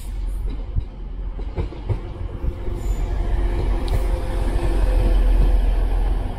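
TransPennine Express Class 185 diesel multiple unit, two units coupled as six cars, arriving and running in close past on the platform line. A deep rumble grows louder as it passes, with clicks from the wheels on the rails, and a steady whine joins about three seconds in.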